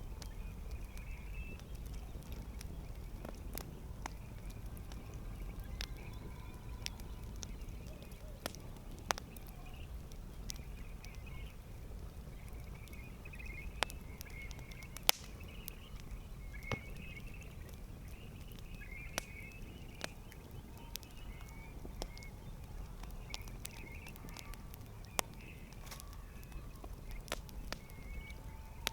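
Wood campfire crackling: irregular sharp pops and snaps, a few louder than the rest, over a steady low rumble of the burning fire. Faint warbling higher sounds come and go in the background.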